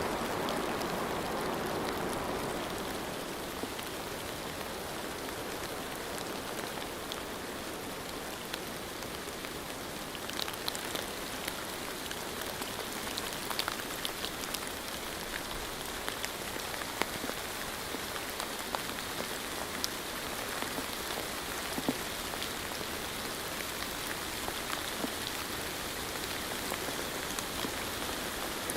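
Steady rain falling, with scattered individual drops ticking on a hard surface such as a window.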